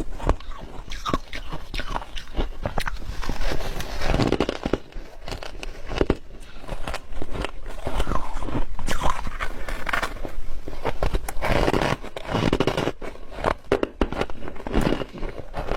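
Ice being bitten and crunched in the mouth close to the microphone: repeated sharp cracks and crunches, with chewing between bites.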